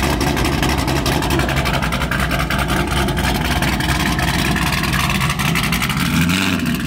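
Sixth-generation Chevrolet Camaro SS with a built, high-compression naturally aspirated V8 and an aggressive cam, idling with a heavy, choppy lope through its exhaust. About six seconds in, the engine note rises and falls as the car starts to pull away.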